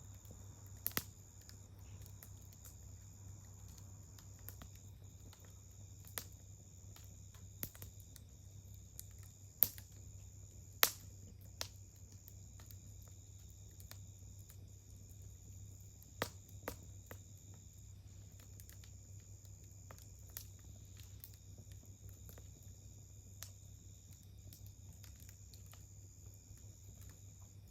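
Wood campfire crackling with sparse sharp pops, the two loudest about ten and eleven seconds in, over a steady high insect trill.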